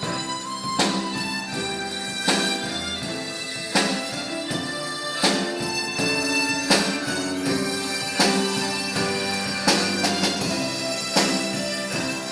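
Harmonica ensemble playing a slow melody in sustained, reedy chords, with a sharp beat about every second and a half.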